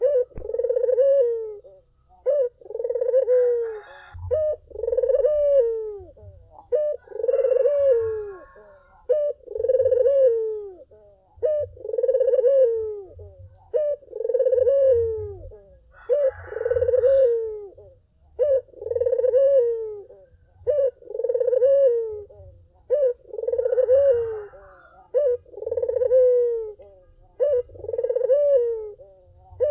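Puter (Barbary or ringneck dove) cooing over and over, about one coo a second, each coo rising and then falling in pitch. It is the steady, prolific cooing of a dove in full song.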